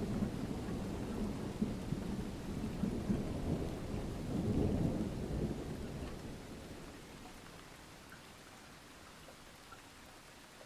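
Rolling thunder rumbling over steady rain; the rumble dies away about six to eight seconds in, leaving only faint rain.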